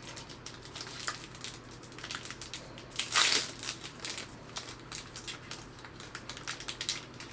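A trading card pack wrapper being crinkled and worked at by hand to tear it open, with a louder crinkle about three seconds in.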